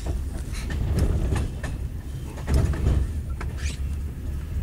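KTM Senandung passenger train running along the line, heard from inside a carriage: a steady low rumble with scattered clicks and knocks from the wheels on the track.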